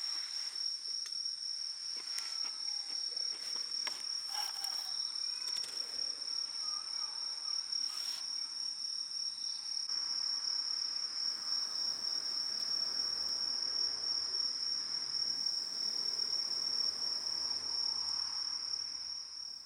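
Night insects trilling steadily in one high, unbroken tone, with a few sharp crackles from a wood campfire in the first half.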